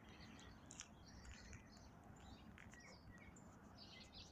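Faint birdsong: several birds giving short chirps and calls throughout, over a low, steady background noise.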